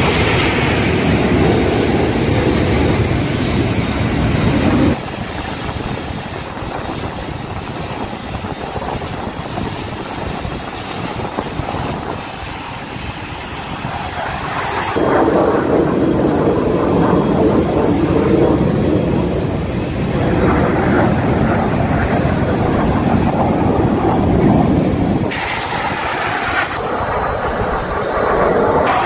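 Loud aircraft engine noise from flying display passes, a steady rush of noise that changes abruptly three times where separate clips are cut together.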